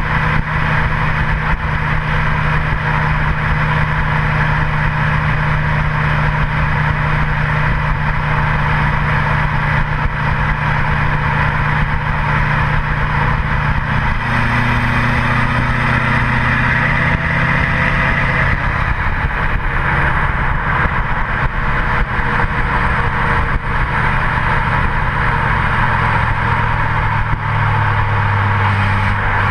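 Straight-piped 2008 LMM Duramax 6.6-litre V8 turbodiesel running with no catalytic converter, particulate filter or muffler, its exhaust dumped over the rear axle. The low exhaust note holds steady and then shifts pitch a few times, about halfway through and again near the end, under a steady rushing noise.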